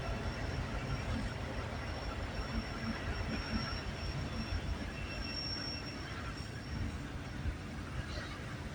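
A freight train's cars rolling past with a steady rumble of wheels on rail, and a thin high-pitched tone held through it.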